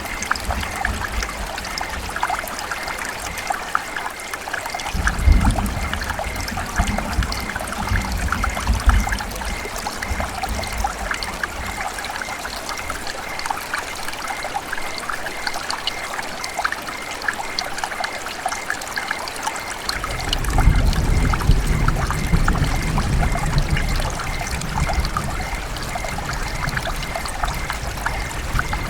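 River water running and trickling in a steady, splashy babble. A low rumble swells under it twice, about five seconds in and again at about twenty seconds.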